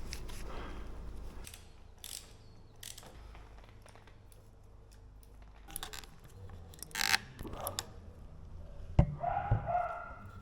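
Intermittent light clicks, taps and scrapes of small metal parts and hand tools being worked on a motorcycle handlebar lever mount, with a short squeak near the end.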